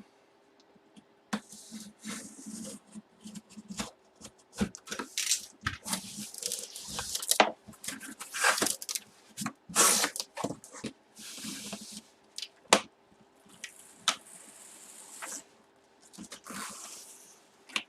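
A cardboard box and its plastic packaging being handled and torn open. It is an irregular run of rustles, tearing and scraping, with several sharp knocks, and a faint steady hum under it.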